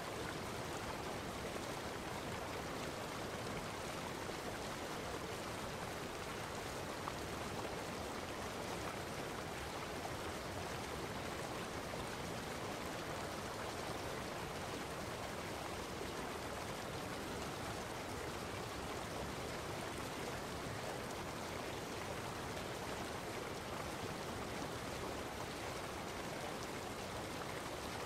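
Steady, unbroken rushing of running water, like a stream.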